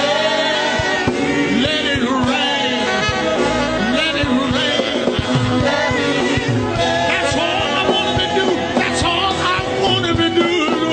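Gospel music played by a church band, with singing over it.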